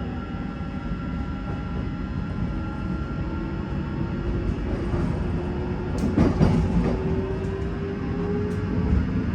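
Train running through the station: a steady low rumble with a slowly rising whine, and a cluster of sharp clicks and knocks from the wheels about six seconds in.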